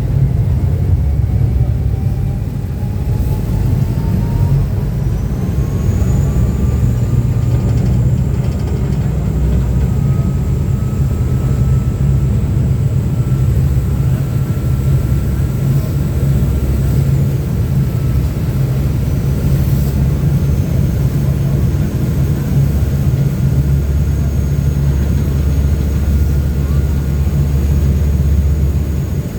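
High-speed Uber Boat river catamaran under way, heard from its open rear deck: a loud, steady low rumble of engines and rushing water. Over it runs a whine that rises over the first several seconds and then holds steady.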